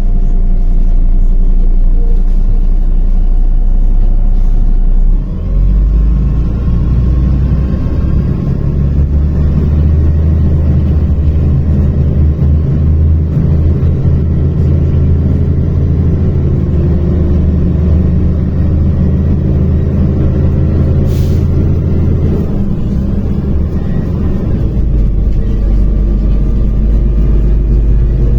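MAZ-105 articulated city bus heard from inside while driving: its diesel engine rises in pitch about five seconds in, holds there, then drops back to a lower run near the end. A brief hiss comes about three-quarters of the way through.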